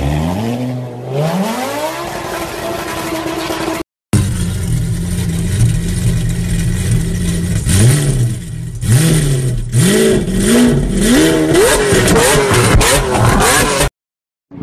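A Lamborghini Gallardo's V10 accelerating hard, its note climbing and then holding. After a cut, a parked Lamborghini Aventador's V12 idles and is then blipped again and again, each rev rising and falling quickly.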